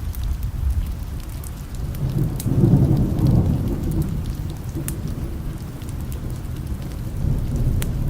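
Steady rain with a low roll of distant thunder that swells about two and a half seconds in and dies back a couple of seconds later, over scattered sharp ticks.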